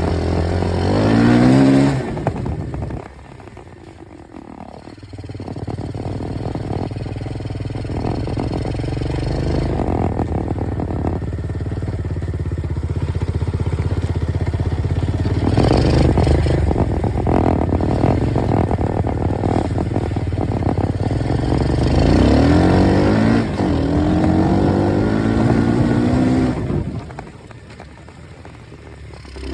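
Dirt bike engine revving and pulling, its pitch climbing under throttle again and again, easing off twice to a much quieter low running.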